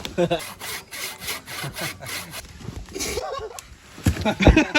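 Hand saw cutting dead wood for a campfire, quick rhythmic strokes about five a second for roughly two seconds.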